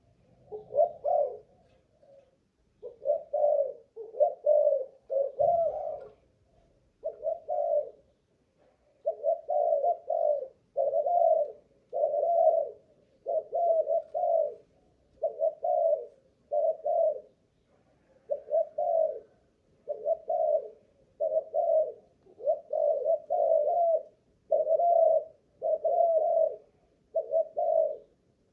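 Malaysian-strain spotted dove cooing over and over, a long run of short low coos coming in quick twos and threes with brief pauses between.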